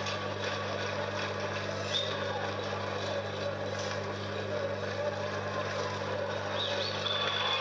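A large audience at a performance, its many voices blended into a steady crowd noise, with a few short high whistles about two seconds in and near the end. A steady low hum from the old vinyl record runs underneath.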